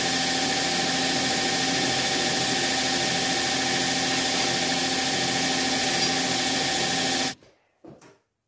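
Steady machine running, an even rushing noise with a constant hum, which cuts off abruptly about seven seconds in; two faint short sounds follow.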